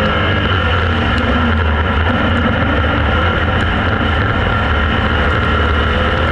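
A vehicle running at a steady speed: a continuous low drone that holds even, with no revving.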